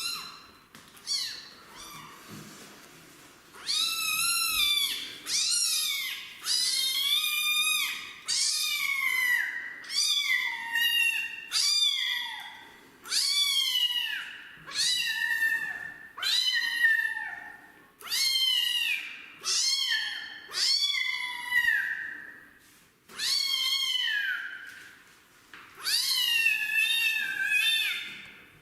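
Kitten meowing loudly over and over, about one high call a second, each sliding down in pitch at its end: a kitten protesting a bath. The calls are fainter and sparser for the first few seconds.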